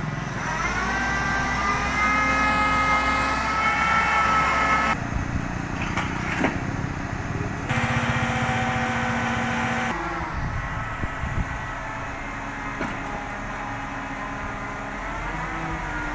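Vehicle engine revving, rising in pitch over the first few seconds, then running more steadily. The sound changes abruptly a few times where the footage is cut.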